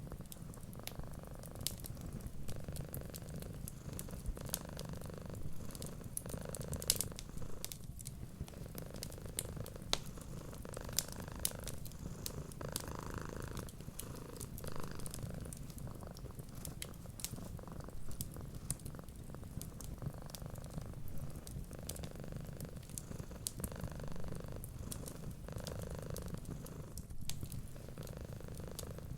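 Cat purring steadily in a low, continuous rumble that swells and eases with each breath, over the crackle of a wood fire with scattered small sharp pops.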